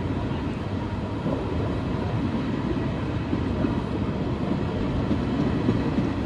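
Regional passenger train's coaches rolling past, a steady rumble of wheels on the track.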